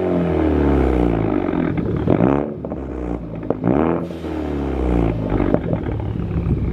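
Ford Focus ST's turbocharged four-cylinder being free-revved while parked: three quick blips, each climbing and then falling back toward idle, with a few sharp pops as the revs drop.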